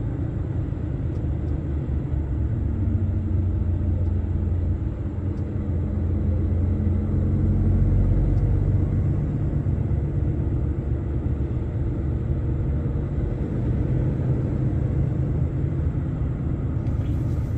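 Lorry cab interior while driving at a steady speed: the engine's steady low drone and road rumble.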